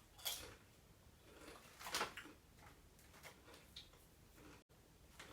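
Faint crunching of potato chips being chewed: a few soft, brief crackles.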